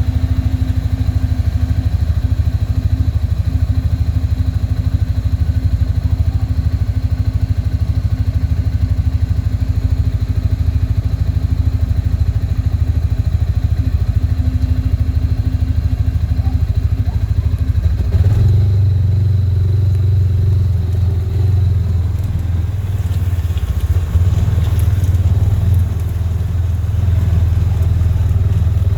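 Engine of a small vehicle running steadily close by, with a low, fast rhythmic beat; its note changes and grows a little louder about two-thirds of the way through.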